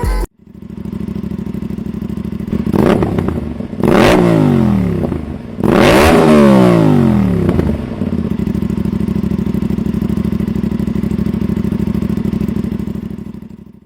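Motorcycle engine idling, revved up twice and falling back each time, about three seconds in and again around six seconds in, then settling to a steady idle.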